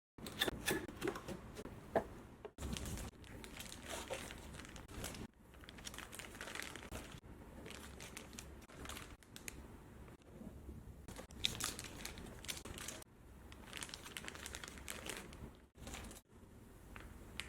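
Plastic packaging of an LED lighting kit being handled and unwrapped by hand: irregular crinkling and rustling with a few sharp clicks.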